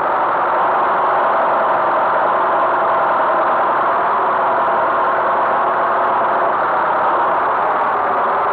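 Tractor engine running steadily at a constant speed, a loud even drone with no change in pitch.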